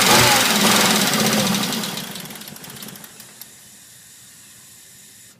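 1997 Volvo 850R's turbocharged inline-five idling roughly after a cylinder-head rebuild, with a rhythmic waver about twice a second, then switched off about two seconds in and running down. A faint steady hum is left after it stops.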